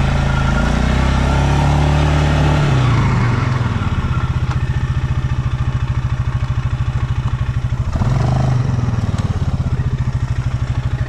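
Stels Leopard 650YL ATV engine running under light throttle, then dropping to a steady, evenly pulsing idle about three and a half seconds in, with a brief rev near eight seconds.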